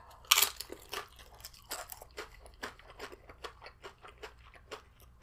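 A person bites into a crisp tortilla chip, with one loud crack about a third of a second in. Chewing follows, with many small crunches close up.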